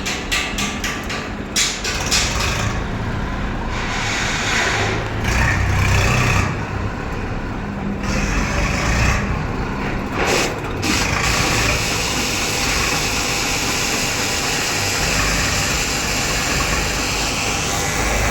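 Diesel engines of a backhoe loader and tractors running at the dig, rising and falling in loudness for the first half as the machine works, then settling into a steady run.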